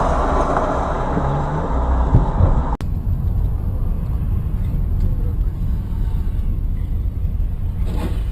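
Vehicle engine and road noise picked up by a dashboard camera: a steady low rumble. About three seconds in it cuts off abruptly and resumes duller, with a faint steady high whine.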